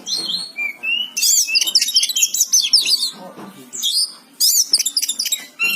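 Oriental magpie-robin (kacer) singing vigorously: rapid runs of varied, sharply up-and-down whistled and chirping notes, pausing briefly about halfway through before another burst.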